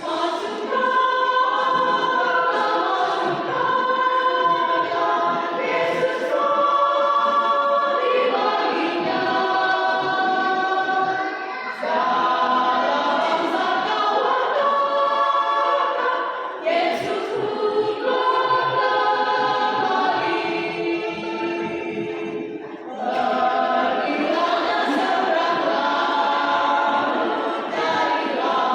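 A mixed church choir singing a hymn in several voice parts, in sustained phrases with short pauses for breath between lines.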